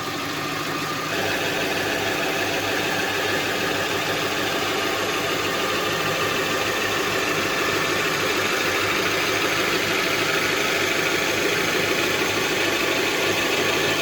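Kia Sportage's engine idling steadily, getting slightly louder about a second in.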